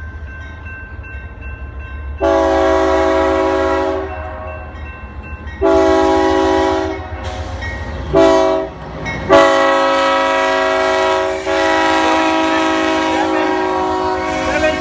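Union Pacific freight locomotive's air horn sounding the grade-crossing signal: two long blasts, one short, then a final long blast held to the end, over a low steady rumble of the train.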